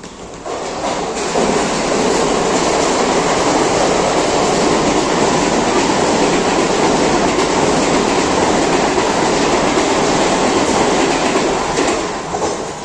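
A Mumbai suburban electric train running along the station platform. It is a loud, steady rushing rumble that builds over the first second or so and dies away near the end.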